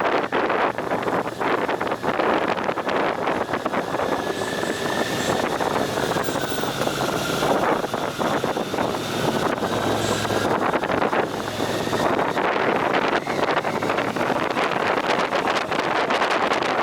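Wind buffeting the microphone of a moving two-wheeled vehicle, a steady rough rush, with a faint thin whine that dips a little in pitch partway through.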